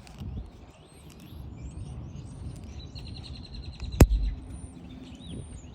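A single sharp click about four seconds in, a transmission line retaining clip snapping into place on a 4L60 transmission. Birds chirp throughout.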